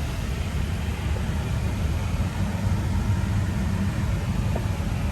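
Steady low rumble of aircraft noise with a hiss over it. There are no distinct events, only small swells in level.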